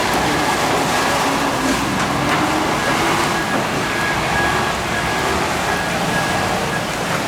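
Loud, steady rushing noise of a large fire being fought. A low drone rises slightly in pitch in the first few seconds, and a faint high whine comes and goes.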